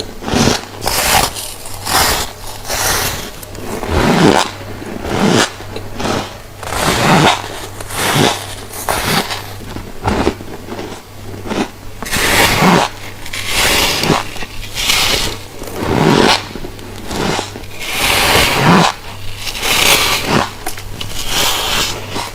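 Close-up chewing of refrozen freezer frost: a run of crisp, squeaky crunches, bite after bite, about one a second. A steady low hum runs underneath.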